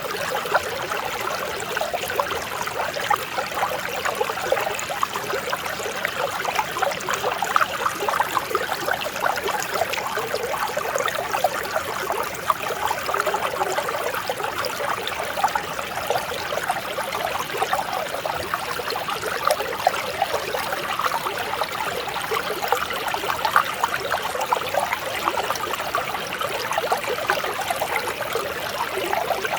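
Mountain stream flowing and burbling over rocks: a steady, gentle rush of water with many small splashes and gurgles.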